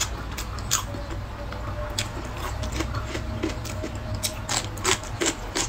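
A person chewing and biting food close to the microphone: irregular wet clicks and smacks over a steady low hum.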